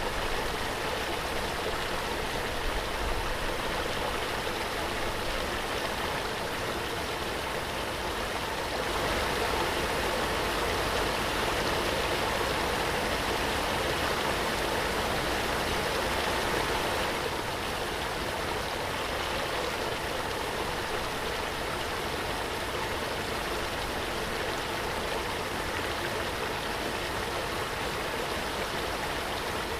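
Waterfall: a steady rush of falling water that swells slightly for several seconds in the middle.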